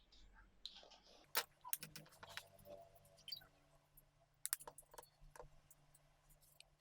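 Scattered light clicks and clinks of a Lansky knife-sharpening kit's hone, clamp and oil bottle being handled, the sharpest about one and a half seconds and four and a half seconds in.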